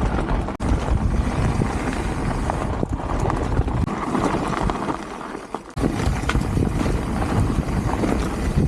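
Bike riding fast over a rough dirt trail: tyres rumbling and the frame rattling, with wind buffeting the microphone. Past the middle the rumble drops away for about a second and a half, then cuts back in abruptly.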